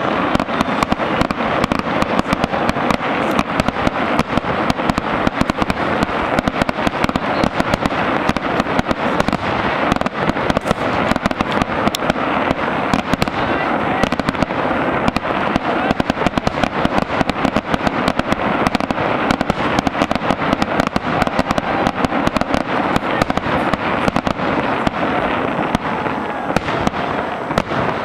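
Fireworks crackling in a dense, continuous barrage of rapid pops, thinning out and getting quieter near the end.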